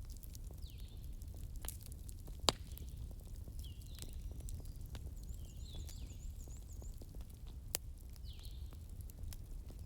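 Wood fire crackling: scattered sharp pops over a low, steady rumble, the loudest pop about two and a half seconds in. A short, high chirping call repeats every second and a half to two seconds, with a quick run of fainter, higher chirps midway.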